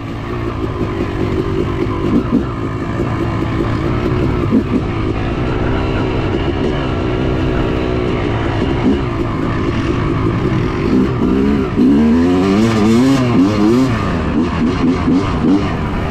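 Yamaha YZ250 two-stroke dirt bike engine running, its revs rising and falling repeatedly, with the strongest swings about two-thirds of the way in.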